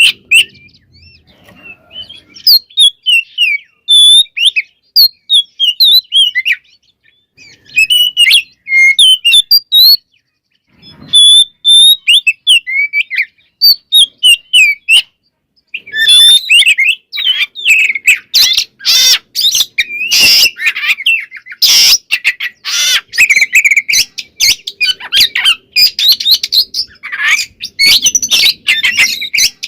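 Oriental magpie-robin (kacer) singing: short, varied whistled phrases with pauses at first. About halfway through it breaks into a dense, unbroken run of song mixed with harsh rasping notes.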